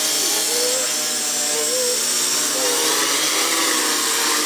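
GAUI 330 quadcopter's electric motors and 10-inch propellers running steadily, a dense buzz with many overtones over a hiss of air.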